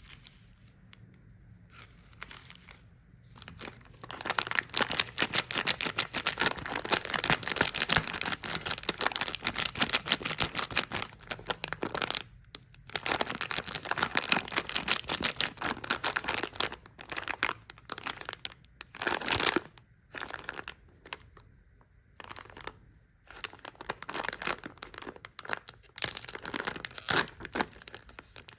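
Plastic candy wrappers crinkling and being torn open: dense, rapid crackling that starts about four seconds in, with a few short pauses.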